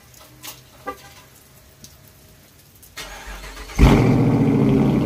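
Dodge Charger R/T's 5.7-litre HEMI V8 cold-started with its mid mufflers deleted. The starter cranks about three seconds in, the engine fires with a loud flare just before four seconds, then settles into a steady idle through the louder, more open exhaust.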